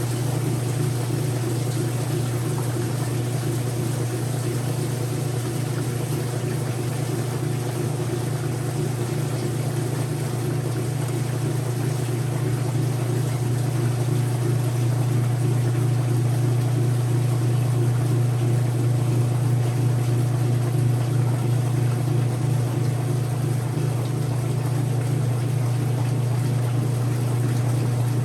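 Whirlpool direct drive washing machine running, with a steady motor hum that grows a little louder partway through.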